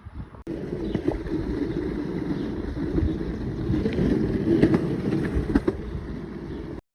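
Skateboard wheels rolling over pavement, a steady rough rumble with a few faint clicks, mixed with wind buffeting the microphone.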